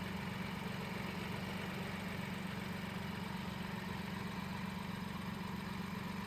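2015 MINI Cooper F55's B38 1.5-litre turbocharged three-cylinder engine idling steadily, an even low hum with no change in speed.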